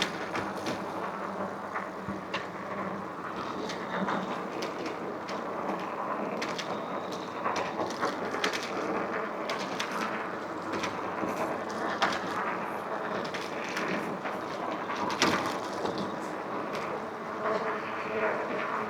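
Electric bike being ridden: steady wind and tyre noise, broken by frequent rattles and clicks from the bike over the road surface.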